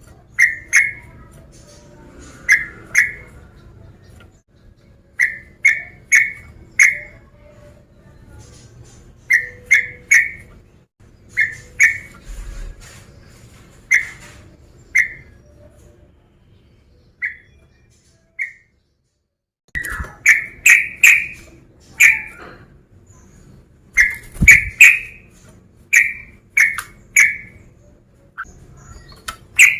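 Male yellow-vented bulbul (trucukan) calling: short, loud, whistled notes in quick groups of two or three, thinning out midway and then coming in a denser run about twenty seconds in.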